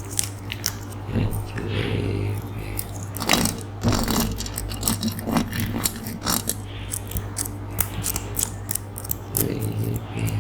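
Close-miked ASMR mouth sounds: irregular wet clicks and smacks, with a few short breathy mouth noises, over a steady low hum.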